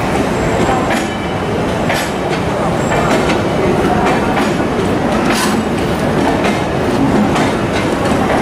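Mumbai Rajdhani Express passenger coaches rolling past close by as the train departs. There is a steady rumble of wheels on rail, with a sharp click every second or so as the wheels cross rail joints.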